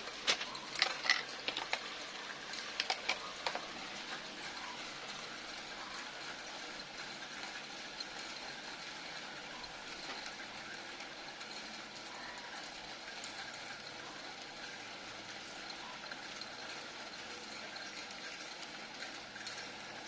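Small hard parts being handled: clusters of sharp clicks and taps over the first few seconds, then a steady faint hiss with an occasional small tick.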